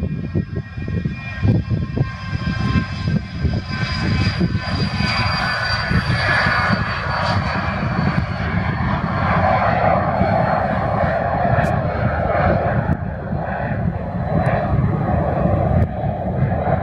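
Cessna Citation business jet's twin turbofan engines at takeoff power: a steady high whine over a low rumble, the whine falling slowly in pitch as the jet goes by.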